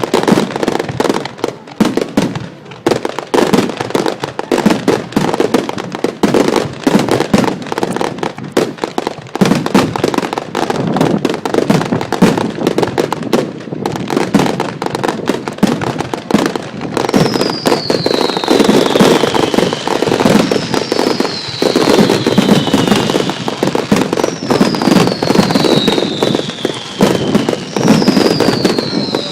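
Fireworks display: a dense, rapid run of bangs and crackling bursts. From about two-thirds in, four high whistles fall in pitch a few seconds apart over the bangs.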